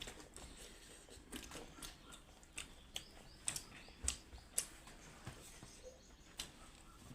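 Close-up eating sounds: irregular small clicks and smacks of chewing, about one or two a second.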